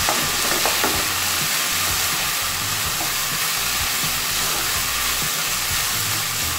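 Chicken and vegetable spring roll filling sizzling steadily in a pan while it is stirred and tossed with a wooden spatula, with a few soft knocks of the spatula against the pan.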